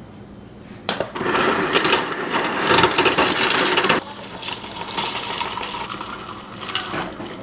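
Ice and water going into a cup. A loud rattling rush starts about a second in and stops abruptly about four seconds in, then a quieter pour runs on.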